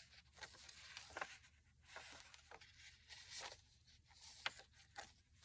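Faint rustling and light ticks of paper journal pages and trim being handled.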